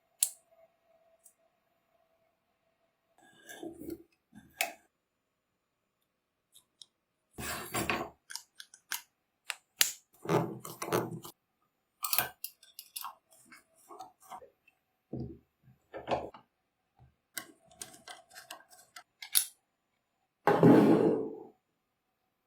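Irregular clicks, knocks and scrapes of small metal tool parts being handled and worked, with a longer, louder scraping noise near the end.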